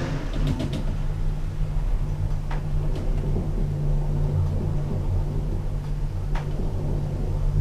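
Lift car travelling, its drive giving off a steady low hum, with a few faint clicks.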